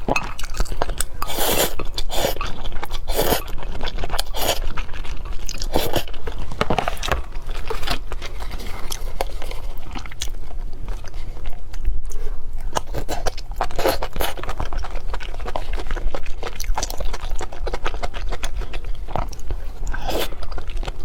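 A person chewing and biting into chocolate cake, with irregular crunches every second or so.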